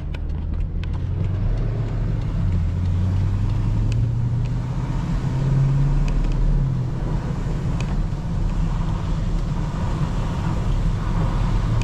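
BMW X5 50i's twin-turbo V8 pulling the SUV along a snowy road: the engine note climbs steadily for about six seconds, drops back about halfway through, then holds steady under a constant wash of tyre and road noise.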